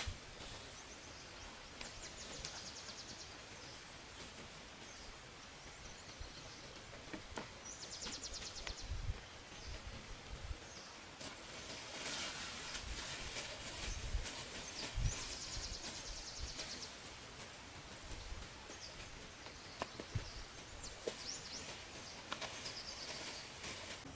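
Outdoor forest ambience: a steady hiss with short, rapid, high trills that recur every few seconds, and a few dull low knocks.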